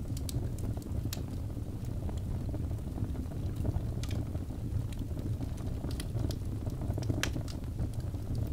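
Birch log fire burning in a fireplace: a steady low rumble of flames with scattered sharp crackles and pops, the loudest pop about seven seconds in.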